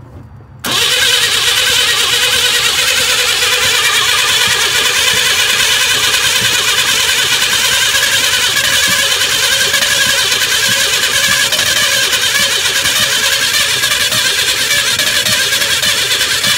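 A GM S-series pickup engine being cranked by its starter, without throttle, for about sixteen seconds without catching. The cranking starts sharply less than a second in, holds a steady level and stops abruptly at the end.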